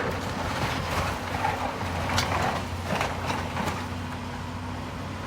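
Heavy demolition machine's engine running steadily while it tears at a brick building, with crunching and clattering of breaking masonry and several sharp impacts in the middle.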